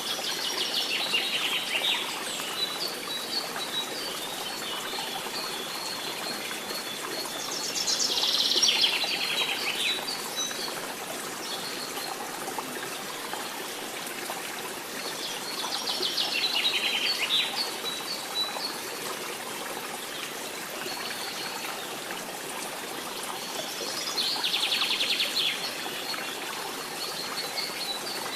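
Forest birds singing: one bird repeats a loud, quick, falling trilled phrase about every eight seconds, four times, with thin high chirps in between. Under it runs a steady hiss of running water.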